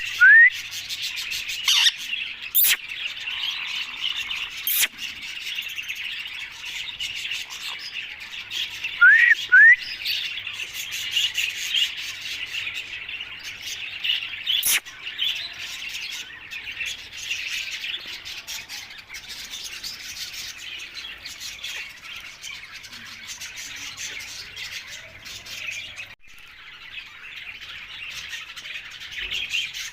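Alexandrine parrot chirping and squawking continuously, with two loud pairs of quick rising whistles, one near the start and one about nine seconds in, and a few sharp clicks.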